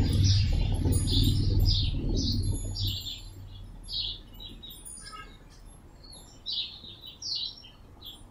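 Small birds chirping, short high calls repeated every half second or so, over the low hum of an idling side-by-side utility vehicle engine that dies away about three seconds in.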